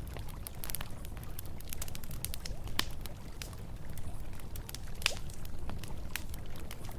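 Campfire crackling with frequent sharp pops, two of them louder about three and five seconds in, over the steady low rush of flowing river water.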